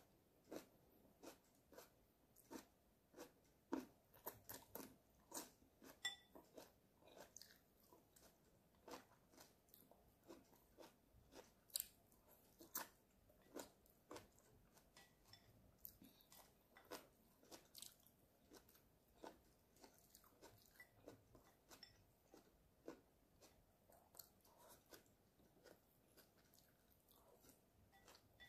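Close-miked chewing of stir-fried beef and Chinese kale with rice: a steady run of small crunches and wet mouth clicks, roughly two a second.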